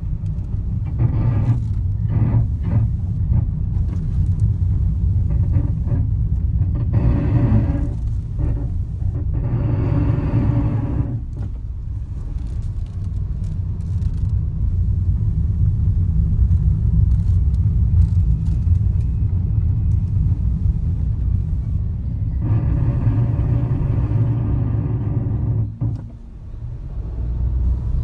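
Honda N-ONE Premium Tourer's brakes grinding and groaning with a metallic noise in four spells of a few seconds each as the brakes are applied, over a steady rumble of the car on the road. The noise is a fault with no cause found: it comes on when braking downhill and goes away after some driving on the flat, and it persisted even after the dealer replaced the rotors and pads.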